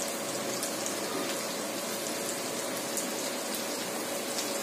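Chicken bhuna masala sizzling in oil in a steel kadai: a steady frying hiss with scattered faint crackles.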